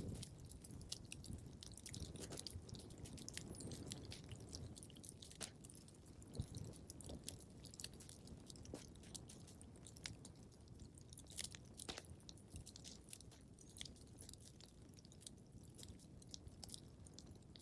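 Wood fire crackling in a fireplace: faint, irregular small pops and snaps over a soft low rumble of burning, with one louder pop about six seconds in.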